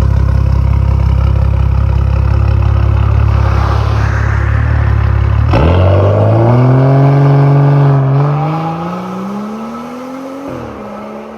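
BMW N55 turbocharged inline-six, straight-piped with a catless downpipe, giving a loud, deep exhaust drone. About five and a half seconds in, it accelerates hard, its pitch rising, then drops at a gear shift, rises again and shifts once more as the sound fades away.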